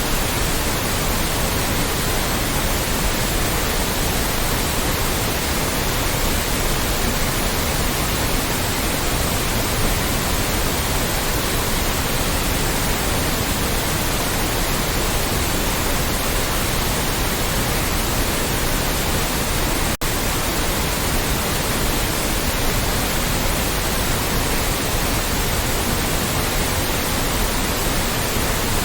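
Loud, steady white noise: an even hiss across all pitches, with a split-second dropout about two-thirds of the way through.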